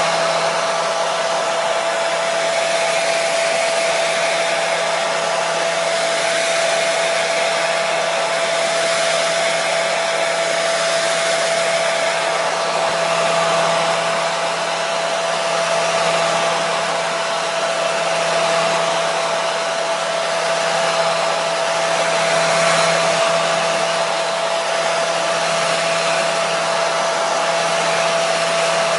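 Hair dryer running continuously, a steady rushing blow of air with a constant motor hum and a steady whine through it.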